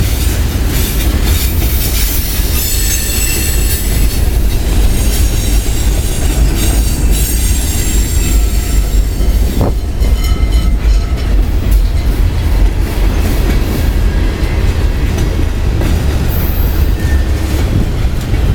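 Railroad cars of a long train rolling past close by: a steady low rumble, with the wheels squealing and clacking over the rail joints.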